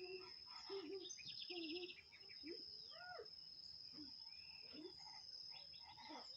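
A bird chirping and calling in short, varied, gliding notes, with a quick trill near the start. Under it runs a steady high-pitched whine.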